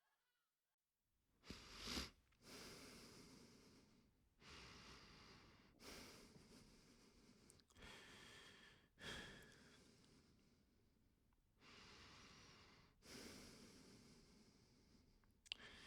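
A person breathing slowly: a series of faint breaths in and out, each under a second long, with short pauses between them.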